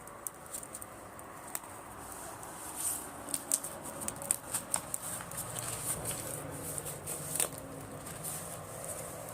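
Driftwood bonfire crackling, with sharp irregular pops and snaps over a rising hiss, as freshly added wood catches; the pops come thickest in the middle.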